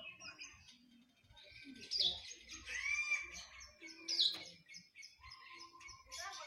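Songbirds singing: a rapid run of short high chirps, with louder whistled calls about two seconds in and again near four seconds, and a sliding note between them. The birds are the oriental magpie-robin (kacer), long-tailed shrike (cendet) and white-eye (pleci).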